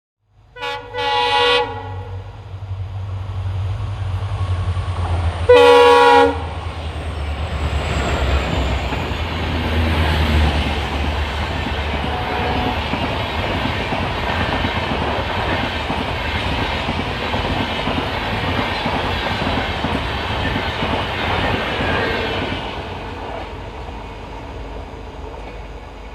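Twin WDP4D diesel locomotives sound their horns on the approach: a short blast, then a second, louder blast about five seconds later. Then the locomotives' engines rumble by and the LHB coaches roll past with steady wheel-and-rail noise that fades near the end.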